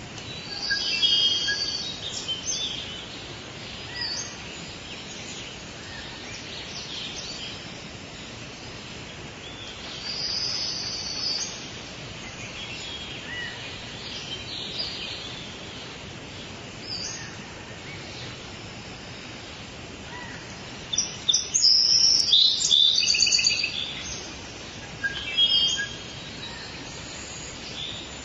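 Forest birds calling and chirping over a steady background hiss, with clusters of calls about a second in, about ten seconds in, and a loudest burst of rapid calls about three quarters of the way through.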